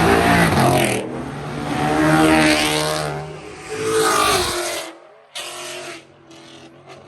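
High-performance car engine revving hard as the car accelerates away. Its pitch climbs, drops at a gear change about three seconds in and climbs again, then cuts off and fades to a quieter rumble in the last two seconds.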